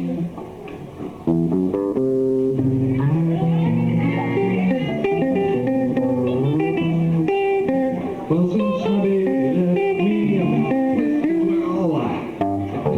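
Live band playing an instrumental passage with guitar lines over bass guitar. It is quieter for about the first second, then comes in fuller and keeps going steadily.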